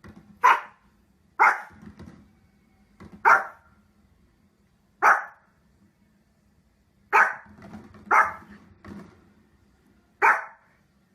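Dog barking: about seven sharp, loud single barks, one to two seconds apart, with a few fainter barks between them.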